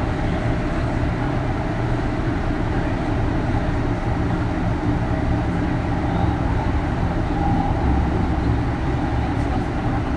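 Steady running noise inside a motor car of a Kintetsu 3200 series electric train with an early Mitsubishi GTO VVVF inverter, the wheels and traction equipment running at an even speed.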